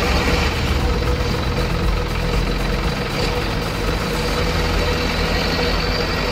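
Truck engine sound running steadily at an even idle-like pace. There is a low rumble, a steady mid-pitched tone and a constant hiss.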